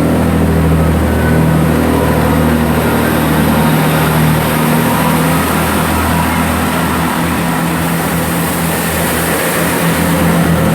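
Diesel engines of a Class 165 diesel multiple unit running steadily, a loud, constant low hum.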